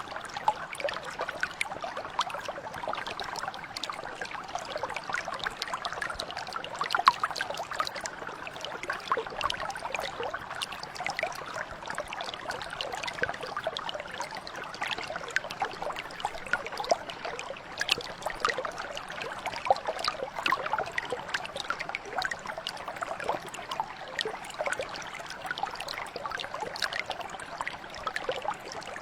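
Small mountain brook flowing steadily, with a continuous babble of water over stones and many small splashes and trickles.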